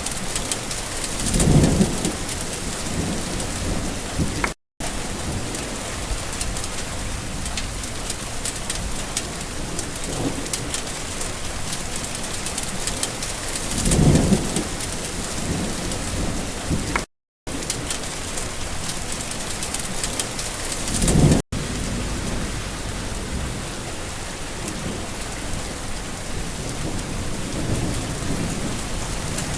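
Steady rain falling, with thunder rumbling three times: about a second and a half in, around the middle, and about two-thirds of the way through. The sound cuts out to silence for a moment a few times, where the recording is spliced.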